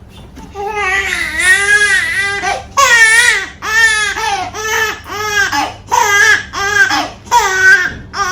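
A small child crying hard: one long wavering wail, then a run of shorter cries that rise and fall, about one a second.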